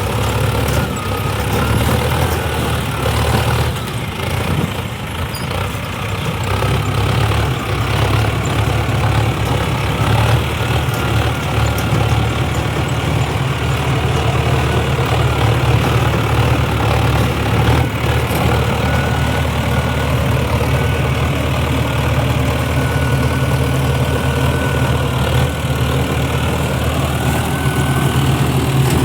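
Tractor diesel engine running steadily with a deep, even hum.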